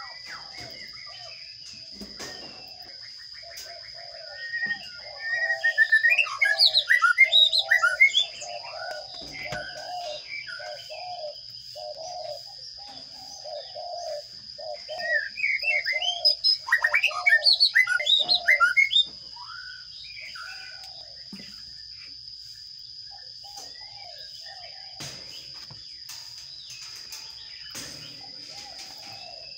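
Sparrow chicks begging in a nest box: two loud bouts of rapid high chirping, a few seconds each, over a lower repeated call about twice a second. A steady high-pitched whine runs under it throughout.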